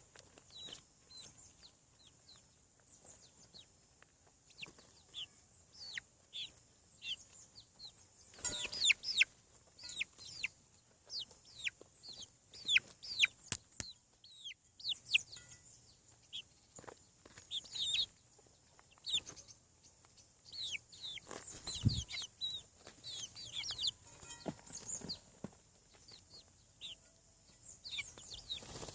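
Chicks peeping: many short, high calls that slide downward in pitch, scattered at first and then coming thick and overlapping. There is one dull knock about three quarters of the way through.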